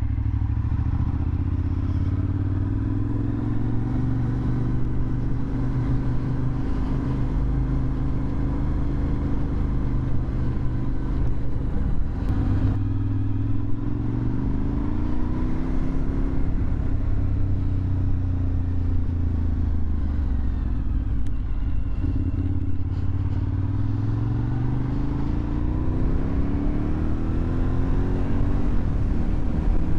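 2001 Suzuki TL1000R's 90-degree V-twin running through a LeoVince aftermarket exhaust on the move, its pitch rising several times as it accelerates, with stretches of steady running between.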